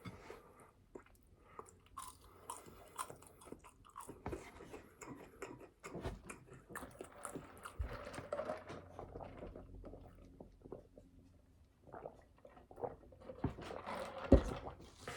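Close-up chewing and biting of food, with irregular wet smacks and crunches; the mouth sounds thin out a little after the middle and pick up again near the end.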